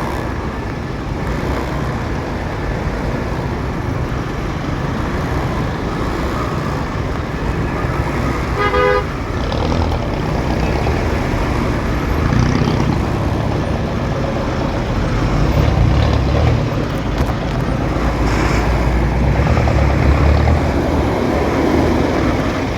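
Steady road and traffic rumble heard while riding a motorcycle through city traffic, with a vehicle horn honking briefly about nine seconds in.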